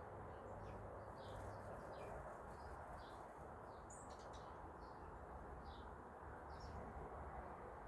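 Small birds chirping faintly: many short, separate high chips scattered throughout, over a steady low background hiss.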